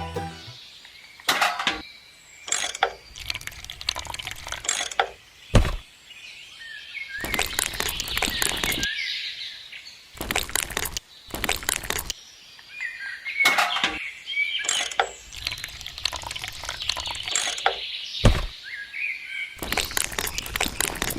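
Water splashing in repeated bursts of a second or two, with birds chirping and two sharp knocks.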